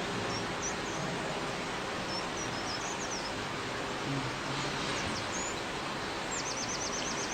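Small birds chirping faintly over a steady background hiss, with scattered short chirps and, near the end, a quick trill of about eight repeated notes.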